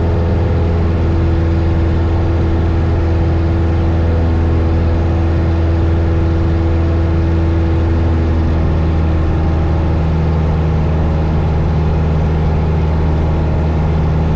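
Single-engine Cessna 172 Skyhawk's piston engine and propeller droning steadily, heard inside the cabin in flight, with a slight shift in its tone about nine seconds in.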